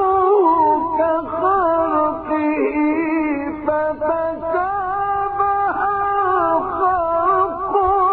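A solo male voice chanting Quran recitation in the melodic mujawwad style, drawing one long phrase out in an ornamented line of wavering pitch, with brief breaks for breath.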